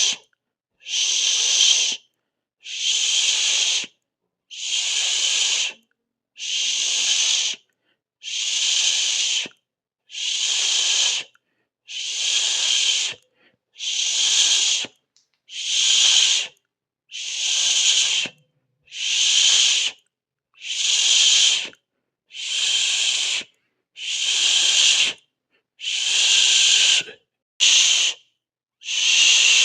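A person hissing a long 'sss' over and over, each hiss lasting about a second with a short silent gap before the next, roughly one every 1.7 seconds in an even rhythm.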